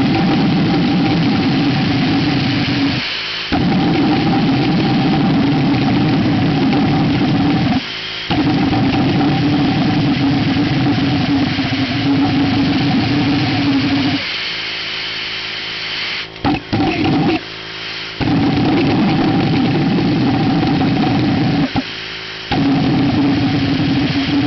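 Homemade propane pulsejet running with a loud, steady low buzz. It drops out briefly about 3, 8 and 22 seconds in and stutters for several seconds around the middle, catching again each time. This fits an engine that the builders say will not keep itself running once ignited.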